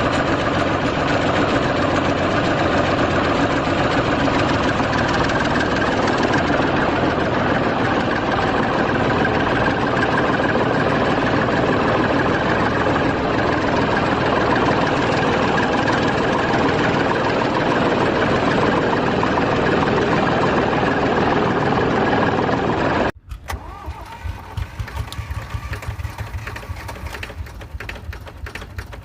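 Tractor engine running steadily under load. About three-quarters of the way through it cuts off abruptly and is replaced by a quieter, low engine idle with rapid clicking.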